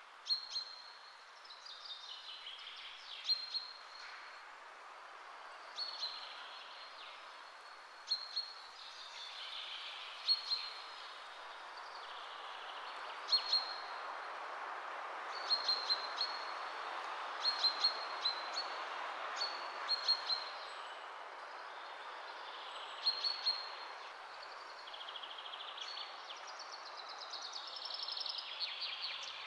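Birds chirping in short, high calls every second or two over a steady background hiss of outdoor ambience.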